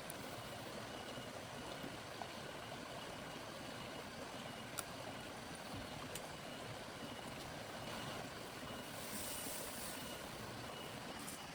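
Steady heavy rain, an even hiss, with a few single sharp ticks of drops striking something close by.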